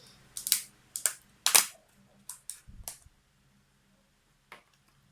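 A run of short, sharp clicks and taps at the table during a meal, about a dozen in the first three seconds, the loudest about a second and a half in, then one faint click near the end.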